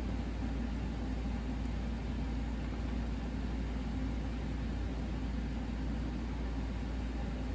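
Steady low hum with an even hiss above it and no distinct events.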